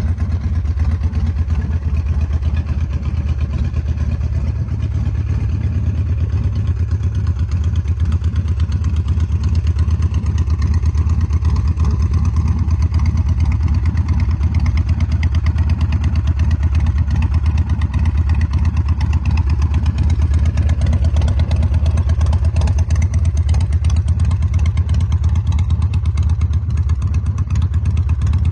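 Custom chopper motorcycle's engine running steadily at an even speed, with a fast, regular exhaust pulse and no revving.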